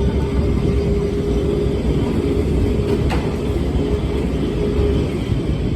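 Vintage yellow electric tram on Lisbon's line 28 running along its rails: a steady low rumble with a faint steady whine that fades near the end, and one sharp click about three seconds in.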